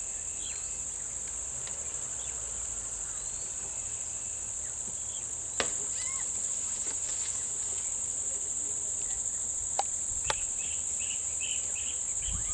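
Steady high-pitched chorus of insects, with a few short chirps and a few sharp clicks, the first about halfway through.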